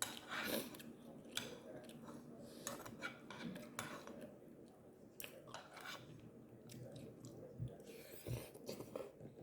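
A person chewing a mouthful of grilled pork belly with melted cheese, with faint wet mouth sounds and small clicks.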